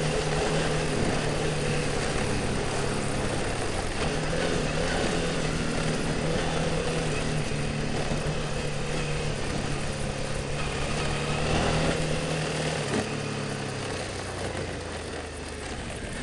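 Motorcycle engine running steadily while riding, with wind and trail noise, easing off and getting quieter over the last few seconds.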